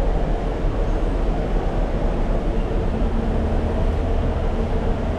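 A vehicle running steadily: a loud, even low rumble with a faint steady hum, without change.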